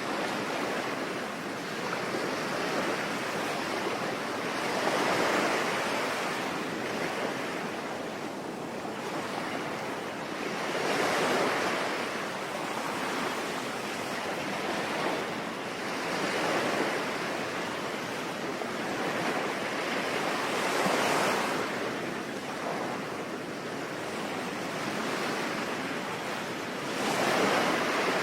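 Ocean waves breaking and washing in, swelling five times about every five to six seconds, over a steady hiss of rain.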